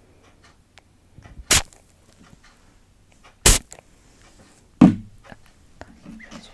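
Three sharp, loud cracks made close to the microphone by an ASMR trigger, about two seconds apart, with faint small clicks and rustles between them.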